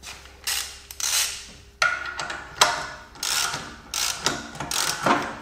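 Ratchet wrench clicking through repeated strokes as it turns the forcing bolt of a ball joint separator press against the suspension's lower arm ball joint.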